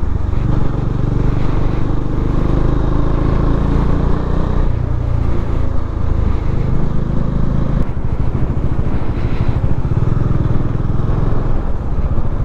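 Motorcycle engine running steadily while riding, with wind and road noise; the engine note shifts a couple of times.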